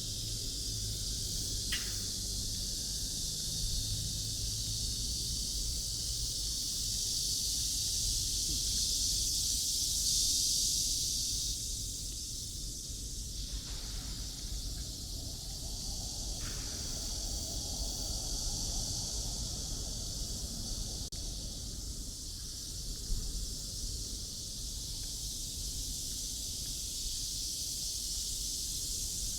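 Outdoor ambience of a city walk: a steady high hiss, louder for a few seconds near the middle, over a low rumble.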